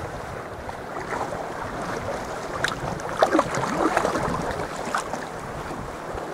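Sea water lapping and splashing around a sea kayak, with wind on the microphone. The middle of the stretch is louder and busier, with a few sharp knocks or splashes.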